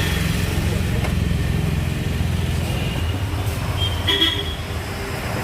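Royal Enfield Bullet motorcycle's single-cylinder engine running, a steady rapid low pulsing. A brief higher-pitched sound comes about four seconds in.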